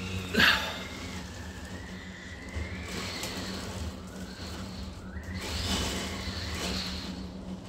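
Gale-force wind gusting against a house and whistling through a window, the whistle rising and falling in pitch. A sudden loud bang about half a second in, the loudest moment, and a stronger gust later on.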